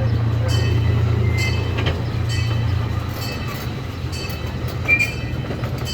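Amusement park train rolling along its track: a steady low rumble with regular clicks about once a second, and a couple of brief high squeaks from the wheels.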